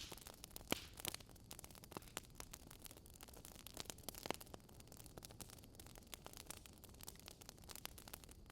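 Wood fire crackling, with irregular sharp pops and snaps, the loudest about a second in and again just past four seconds, over a faint steady hiss.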